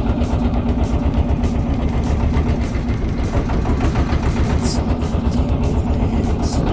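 Marine diesel engine running steadily at a constant speed, with a low, fast, even pulsing and a steady hum.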